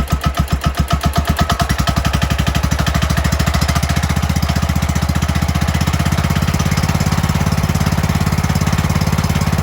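Briggs & Stratton 15.5 hp ride-on mower engine, warm, running through a new exhaust. It starts at a slow idle with distinct, evenly spaced beats, picks up speed as the throttle is opened about two to three seconds in, then runs steadily at the higher speed.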